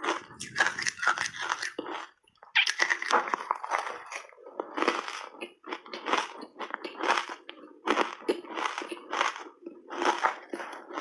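A person biting and chewing ice coated in matcha tea powder: a run of loud, irregular crunches, with a brief pause about two seconds in.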